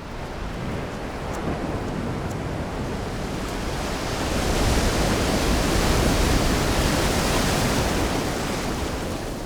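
A steady rushing noise with no pitch to it, swelling to a peak about five to seven seconds in and then easing off.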